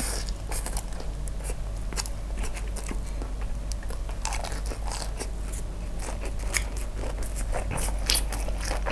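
Close-miked eating: a mouthful of fried noodles taken in with chopsticks, then chewed, giving a run of irregular wet smacks and clicks.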